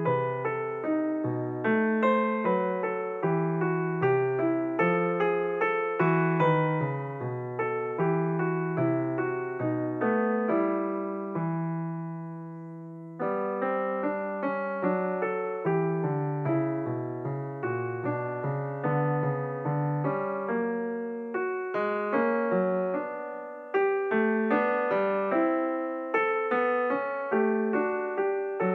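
Background piano music: a steady run of short notes, pausing on a held chord that fades out about halfway through before the playing resumes.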